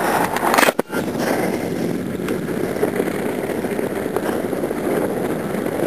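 Steady rush of wind and road noise from a moving car with its window rolled down, blowing over the microphone. A brief knock and momentary dropout come about a second in.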